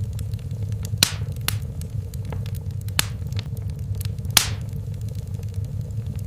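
Fireplace fire crackling over a low steady rumble, with scattered sharp pops; the loudest comes about four seconds in and trails off in a brief hiss.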